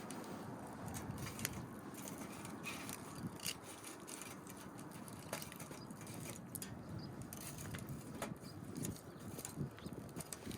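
Small wood fire crackling in a compact fire grill, with irregular snaps and pops over a soft, steady background hiss.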